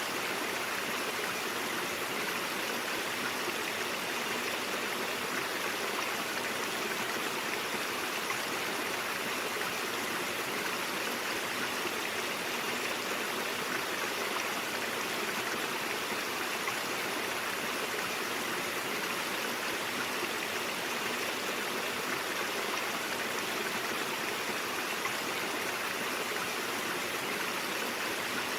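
Stream water flowing steadily over rocks, a continuous even rushing and burbling.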